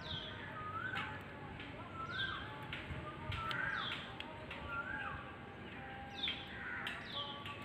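Birds calling over and over, about once a second: a short whistled note that rises and falls, alternating with a higher note that slides downward.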